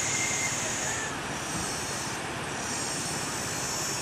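Motorcycle running steadily while being ridden: a constant engine drone over an even noise, with a thin high whine.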